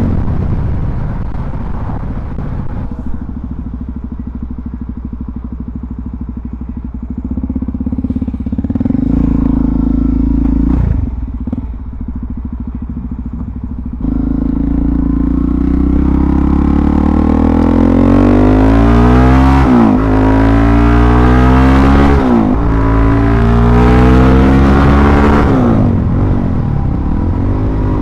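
Suzuki DR-Z400SM's single-cylinder four-stroke engine running at low revs with a brief rev. About halfway through it pulls hard through the gears, the pitch rising and then dropping at each of three upshifts.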